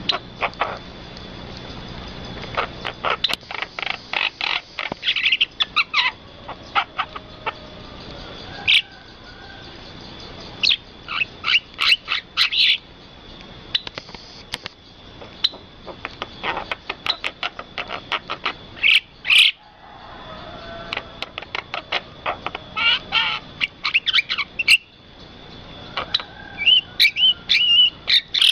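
Birds chirping and calling in quick runs of short, sharp notes, with a faint steady high tone underneath.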